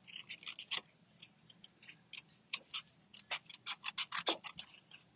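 Scissors snipping paper in a quick, irregular run of small cuts while fussy cutting stamped paper branches.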